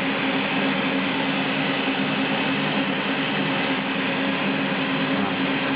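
Steady machine hum with a fan-like rushing noise, unchanging in level.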